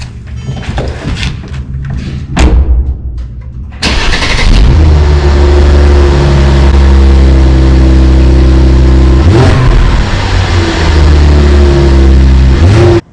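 A few knocks, then a car engine is started about four seconds in and runs steadily, with one brief dip and recovery in pitch a little past halfway; the sound cuts off suddenly at the end.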